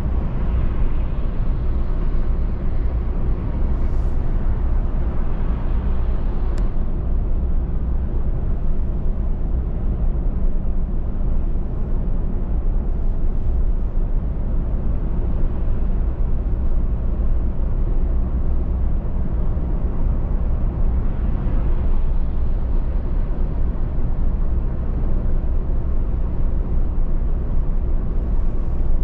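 Steady road and engine noise of a car cruising on a highway, a low rumble of tyres and wind that holds even throughout.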